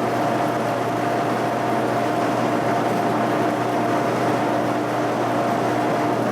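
Shop machine running steadily with an even hum and a constant whine.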